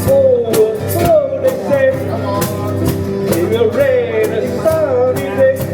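Live band playing a rock cover song: steady strummed chords and a regular drum beat, with a voice singing the melody over them.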